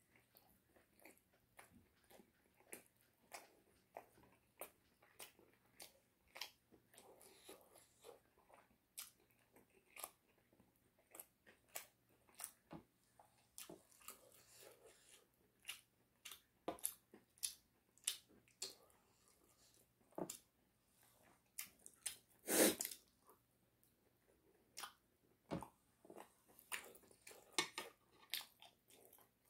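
Close-up chewing and biting into chicken, a string of short crunches and mouth noises, with one louder sharp crunch or knock about two-thirds of the way through.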